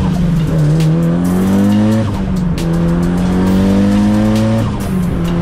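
Mitsubishi Lancer Evolution VIII's turbocharged four-cylinder engine heard from inside the cabin, pulling up through the gears: the pitch climbs steadily and drops at upshifts about two seconds and four and a half seconds in, then holds level.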